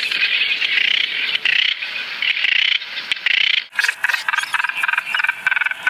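Brown noddies calling: a dense, rapid chattering of calls, with a short break a little under four seconds in, after which the calls come as quick, even pulses.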